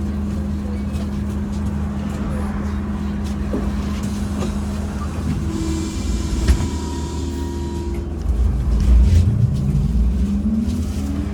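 MAZ-203T trolleybus heard from inside the cabin: a steady electrical hum over road rumble, with a sharp knock about six and a half seconds in. Near the end the traction drive's whine rises steadily in pitch as the trolleybus accelerates.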